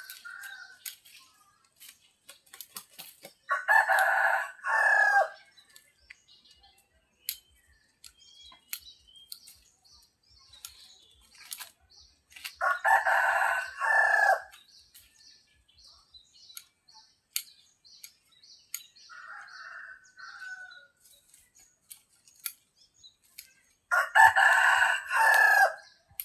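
A rooster crowing three times, about ten seconds apart, each a loud cock-a-doodle-doo of about a second and a half. A fainter, shorter fowl call comes in between, with scattered light clicks and taps throughout.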